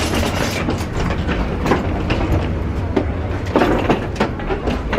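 A steady low rumble with frequent light knocks and clicks scattered through it.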